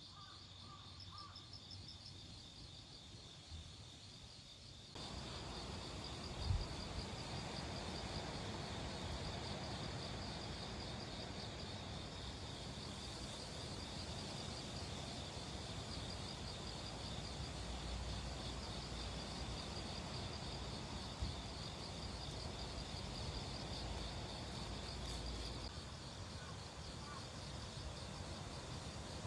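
Autumn insects trilling in a steady, high, pulsing chorus. From about five seconds in, a rushing noise with low buffeting joins it, the sound of wind on the microphone, easing near the end.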